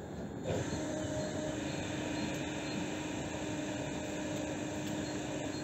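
Passenger train's steady mechanical hum and rushing noise, coming in sharply about half a second in and holding a steady tone.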